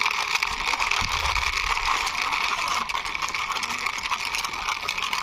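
Small toy taxi car pushed along a wall by hand, its wheels rolling and scraping over a steady hiss of outdoor background noise, with a dull low thump about a second in.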